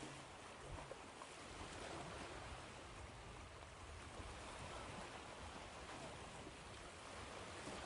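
Ocean waves washing in as a steady, even hiss of surf.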